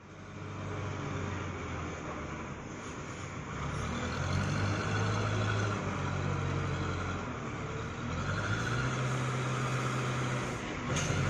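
Old JCB backhoe loader's diesel engine running under working load, its pitch and level rising and falling as it digs, with a brief sharp clank near the end.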